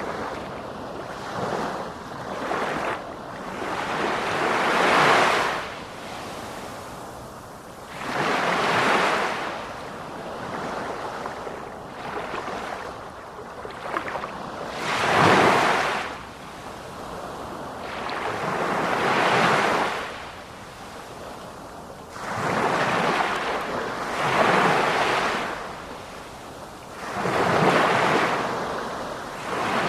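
Ocean waves breaking and washing ashore, each surge swelling and fading every three to four seconds, with some wind on the microphone.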